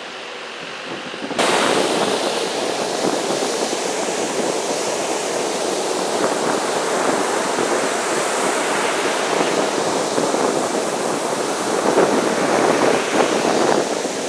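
Wind buffeting the microphone over rough ocean surf: a steady wash of noise that starts suddenly about a second and a half in.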